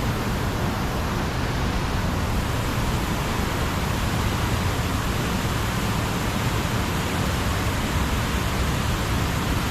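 Floodwater rushing steadily through a spillway.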